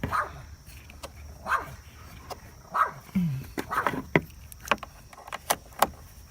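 A dog barking now and then in the background, over sharp metallic clinks and rattles of hand tools and parts being worked on a truck's engine bay.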